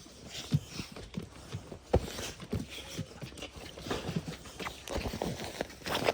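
Dogs moving about, with irregular taps, scuffs and knocks.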